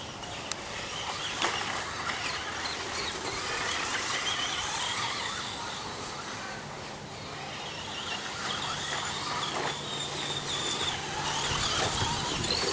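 RC stadium trucks running on the track, their motors giving a high whine that rises and falls as they speed up and slow down.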